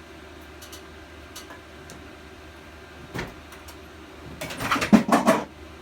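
Workshop handling noise: a single knock about three seconds in, then about a second of rattling and clattering of hard objects being moved.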